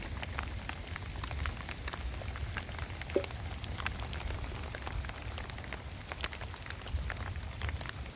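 Heavy rain falling, with a dense, irregular patter of individual drops ticking on a surface and one sharper tick about three seconds in.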